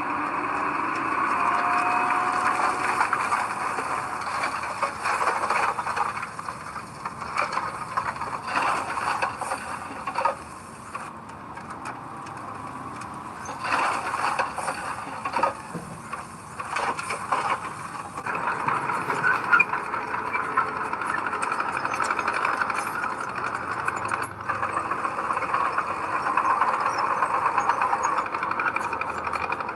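Heavy diesel earthmoving machinery running, with rattling and clanking through the engine noise, which drops back for a few seconds midway.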